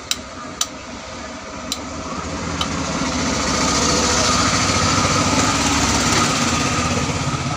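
Voltage stabilizer relays clicking as the control card's voltage preset is turned, four sharp clicks in the first few seconds. Behind them a steady engine-like running noise swells up from about three seconds in and becomes the loudest sound.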